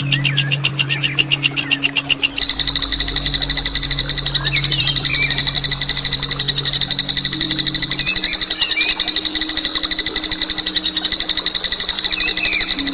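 A songbird's long rolling trill: a harsh, rapid run of repeated notes, about ten a second, held without a break. A low steady hum runs underneath.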